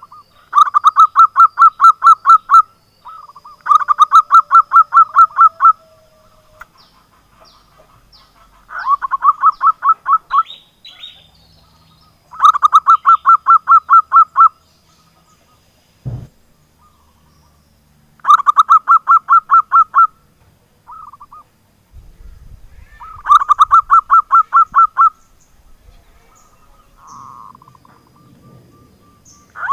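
Zebra dove (perkutut) calling in repeated phrases of rapid, evenly pulsed cooing notes. Each phrase lasts about two seconds, and six of them come a few seconds apart.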